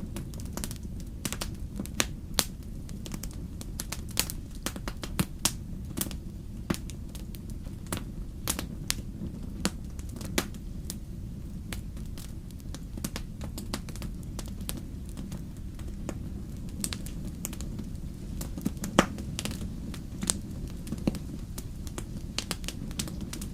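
Wood fire burning in a fireplace: irregular sharp crackles and pops over a steady low rumble of the flames. The loudest pop comes near the end.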